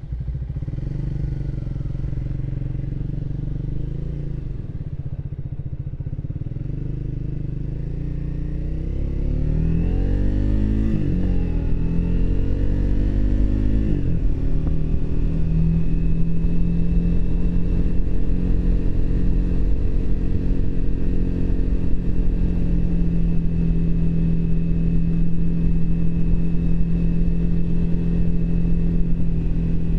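Triumph Speed 400's single-cylinder engine under way. It runs steadily at first, then accelerates about eight seconds in, the pitch climbing and dropping back at gear changes around eleven and fourteen seconds. After that it holds a steady, louder cruise.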